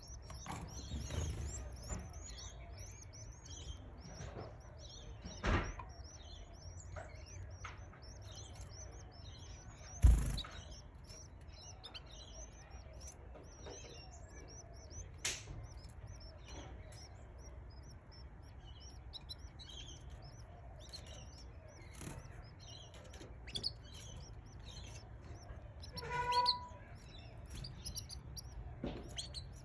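Canary chicks cheeping: a steady stream of short, high chirps, broken by a few sharp knocks, the loudest about ten seconds in, and a brief pitched squeak a little before the end.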